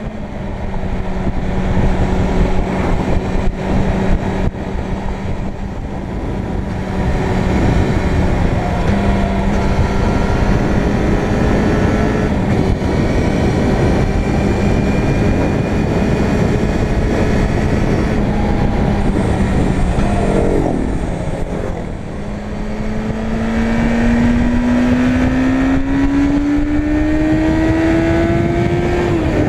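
Suzuki Bandit 600 N's inline-four engine running at steady revs under a rush of wind noise. About twenty seconds in the revs fall, then climb steadily as the bike accelerates, dropping again just at the end.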